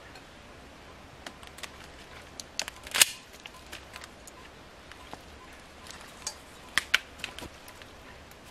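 Scattered sharp clicks and taps at irregular intervals, the loudest about three seconds in and a quick cluster of several near the seven-second mark.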